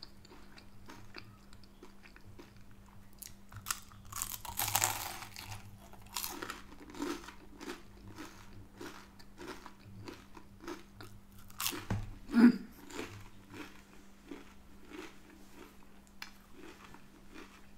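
A person chewing homemade chips in gravy: a steady run of small crunching and mouth clicks, with a few louder crunches, the loudest about twelve seconds in.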